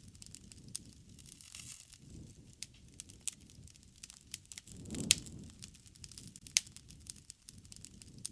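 Campfire crackling: frequent sharp pops and snaps of burning wood over a low, uneven rumble of flame. The loudest pops come about five and six and a half seconds in.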